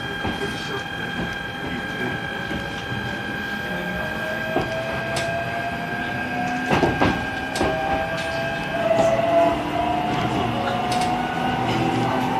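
E129-series electric train's Toyo Denki IGBT VVVF inverter and traction motors pulling away from a station: steady electronic tones with a whine rising slowly in pitch as the train gathers speed. The wheels click sharply over rail joints now and then.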